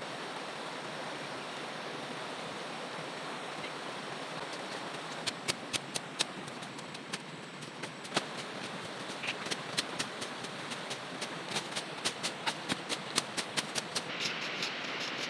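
A steady rushing of water. From about five seconds in there are sharp clicks and taps, coming thicker and faster near the end.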